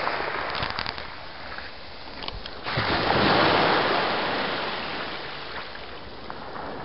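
Surf on a beach: waves washing in with fizzing crackle, then a wave breaks about three seconds in and slowly washes back out.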